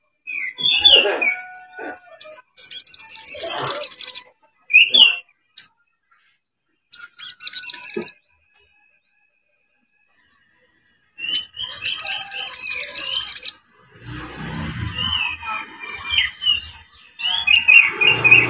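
Sogon bird song played as a lure call. It comes in phrases of rapid, high trilled notes and short falling whistles, with a pause of a few seconds midway. A low hum joins in during the last few seconds.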